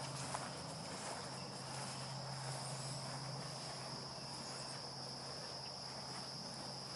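Steady, unbroken droning of crickets or similar insects, with a faint low hum beneath it that fades out near the end.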